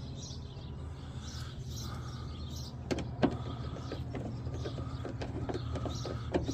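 Scattered light clicks and knocks of the door latch hardware and screws being handled inside a truck door, most of them about three seconds in and through the second half, over a steady low hum, with birds chirping in the background.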